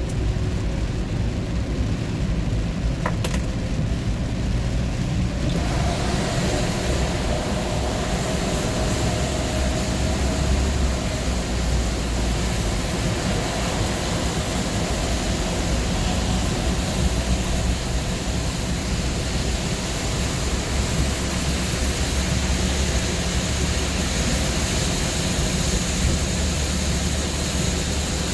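Steady low rumble of a moving vehicle heard from inside, from engine and tyres. About six seconds in, the hiss of tyre and wind noise grows louder and then stays.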